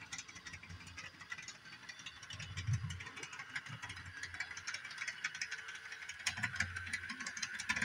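Bachmann doodlebug model railcar running along the track, its small motor whirring under a run of fine, rapid clicks and clunks from the drive. The owner wonders whether the tight 18-inch-radius curve is what makes it click so much.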